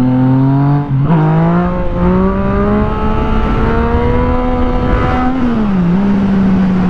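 Motorcycle engine accelerating: its pitch climbs, breaks briefly for an upshift about a second in, then pulls up slowly again before falling as the throttle is eased around five and a half seconds, settling to a steady cruise. Wind rush runs underneath.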